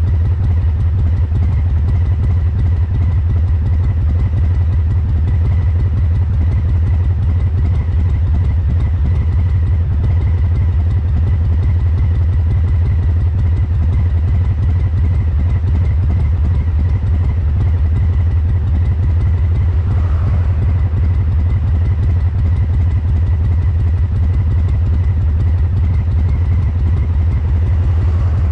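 Harley-Davidson Breakout's Milwaukee-Eight 114 V-twin running steadily at idle through COBRA Neighbor Hater slip-on mufflers, with a deep exhaust note and no revving. The fuel injection is tuned to give the uneven three-beat idle lope.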